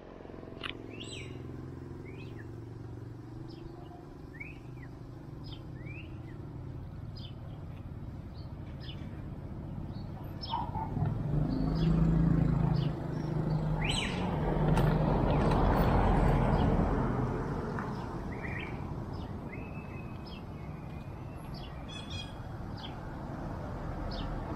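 Small birds chirping in short, scattered calls over a low steady hum. About ten seconds in, a motor vehicle passes: the sound grows louder for several seconds, then fades.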